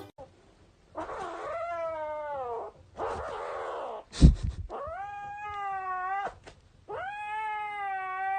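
A cat yowling in three long, drawn-out calls, the first falling in pitch. Between the first two calls there is a breathy noisy stretch, then a sharp thump about four seconds in.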